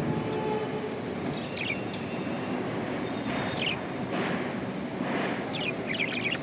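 Budgerigars chirping in short, high calls: once about a second and a half in, again about halfway through, and in a quick cluster near the end, over a steady background hiss.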